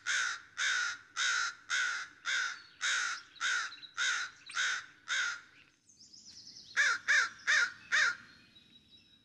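A bird calling: a run of about ten loud, harsh calls, roughly two a second, then after a short pause four quicker calls near the end.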